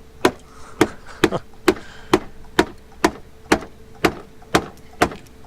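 Sledgehammer blows struck in a steady rhythm, about two a second, a dozen sharp impacts in a row, pounding out crash damage on a car.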